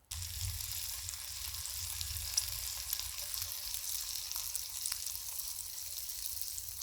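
Bacon-wrapped dates frying in a cast iron skillet over a campfire: a steady sizzle of bacon fat with scattered sharp pops and a low rumble underneath. It starts and stops abruptly.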